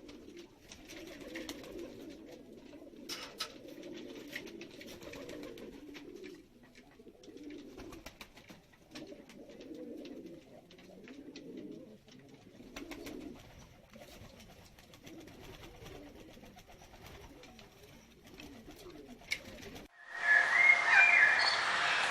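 A bird's low cooing calls, repeated in phrases. Near the end, louder high-pitched bird chirping starts suddenly.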